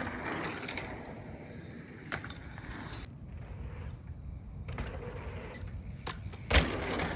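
A bike riding over dirt jumps: tyres rolling and parts rattling, with short knocks and one loud thud about six and a half seconds in.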